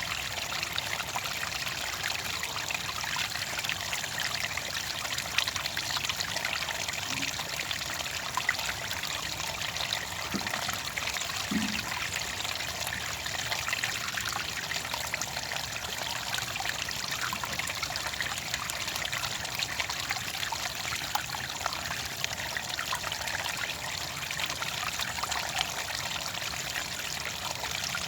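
Small stream of clear water trickling and bubbling steadily.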